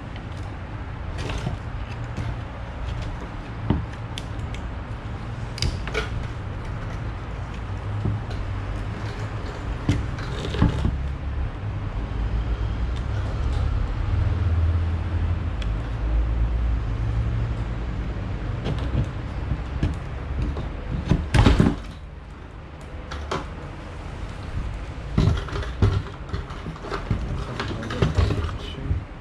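Scattered clicks and knocks of hand work on a truck's fuel pump module as its hoses are disconnected, with one loud knock about two-thirds of the way through, over a steady low rumble.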